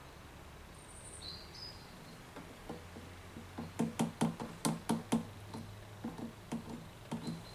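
Engine oil glugging out of a jug into the oil filler as the last of the pour runs through: a run of irregular short gulps, about three or four a second, louder in the middle and tailing off. A faint high chirp sounds about a second in.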